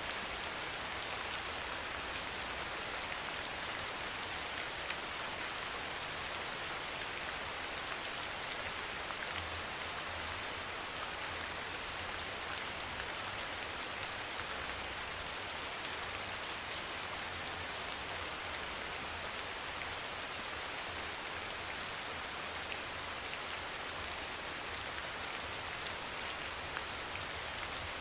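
Steady rain falling, an even hiss of dense drops with individual drops ticking through it.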